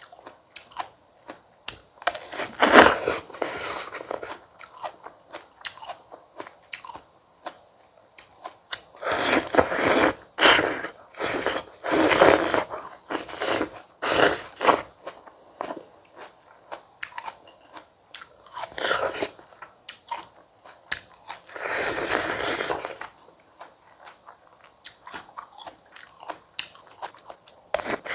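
Close-miked biting into and chewing fresh fruit: crunching bites and wet chewing in irregular clusters, with quieter pauses between mouthfuls.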